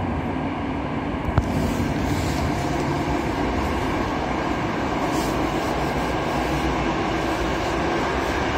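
Steady running noise of a regional passenger train heard from inside the carriage, with a single sharp click about a second and a half in.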